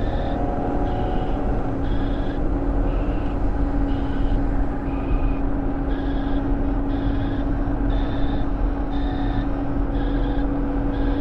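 Steady road and engine noise inside a car driving on the highway, with a constant low hum running through it.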